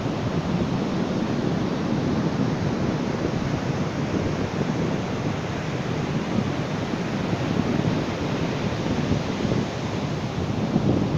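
Ocean surf washing onto a beach: a steady rush of waves that swells slightly near the end.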